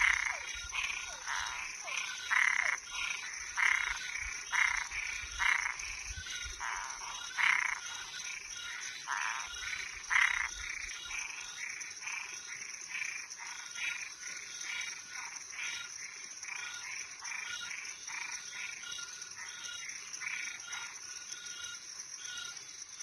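Night chorus of frogs and treefrogs calling in short, rapidly repeated notes, louder and denser in the first half, over a steady high-pitched drone.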